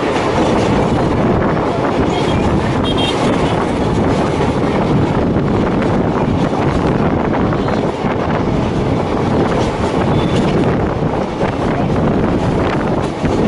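DEMU (diesel-electric multiple unit) train running, heard from on board: a steady rumble of the coach on the track, with wind on the microphone.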